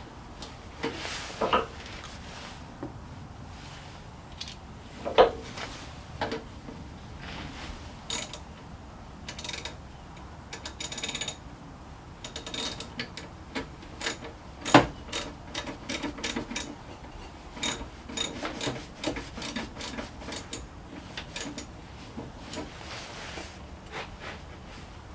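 Hand tools and metal parts being handled: scattered clicks, knocks and rattles, with a run of rapid clicking about ten seconds in and two louder knocks about five and fifteen seconds in.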